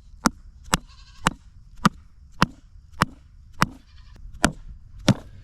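Repeated hammer strikes on a steel grounding rod for an electric fence, about two a second, nine in all, driving it into dry ground that is hard as rock. A goat bleats faintly about a second in.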